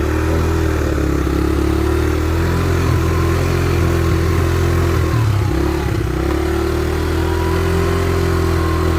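Small vehicle engine running steadily under way, having just pulled away from idle, with a slight dip in its note about five seconds in.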